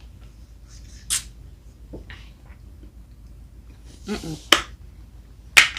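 Mouth sounds of someone tasting a milkshake drink: a hissy sip about a second in, then a few sharp lip smacks near the end.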